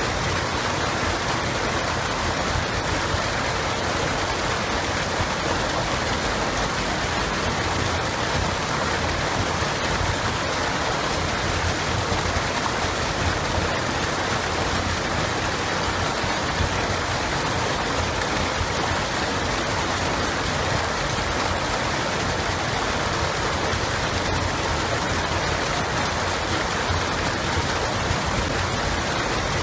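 Running water in a stream, a steady, even rush with no breaks or separate splashes.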